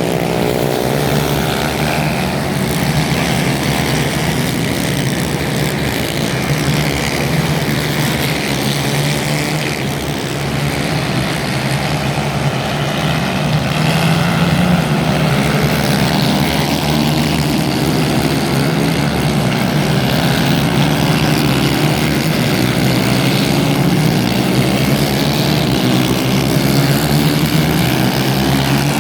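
Several racing kart engines running hard, overlapping, their pitches rising and falling as they accelerate and slow.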